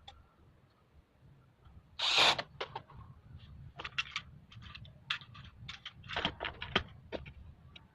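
Parts being handled during assembly of a split air conditioner's indoor unit: a string of irregular clicks and knocks, with a short, loud scrape about two seconds in, over a steady low hum.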